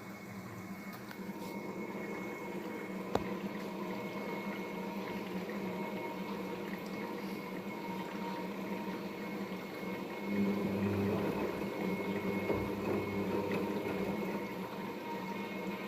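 Daewoo DWD-FT1013 washing machine filling with water early in a Hand Wash 30° cycle: a steady hum with water running in. There is a single click about three seconds in, and the sound gets louder about ten seconds in.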